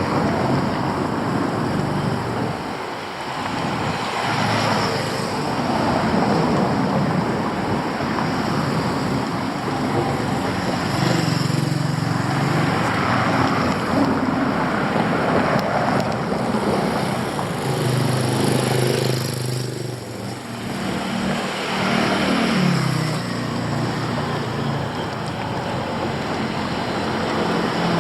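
Street traffic: a continuous rush of road noise, with motor vehicles passing close several times, their engines swelling and fading.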